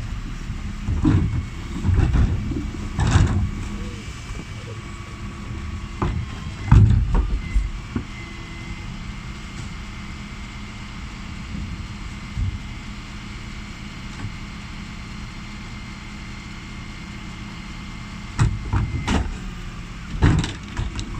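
Dennis Elite 6 refuse truck running at the kerb, a steady high whine held over its engine for most of the time, with knocks and clattering thumps of bins being handled at the lift, the loudest about seven seconds in.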